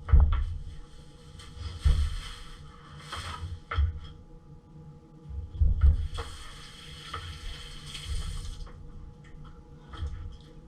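Kitchen tap running into a sink in two spells, a couple of seconds each, with knocks and clunks of things being handled.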